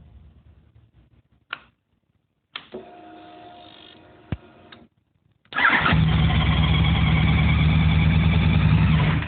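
An engine that will not keep running: after a click and a few seconds of quieter humming, it catches suddenly and runs steadily for about three and a half seconds, then cuts out. The engine runs for only a few seconds and then dies, the symptom of its no-start fault.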